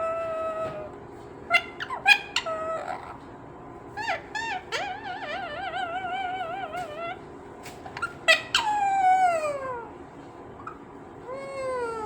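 Green pet parrot calling: short sharp squawks and chirps, a wavering warbling call of about two seconds near the middle, then longer calls that slide down in pitch.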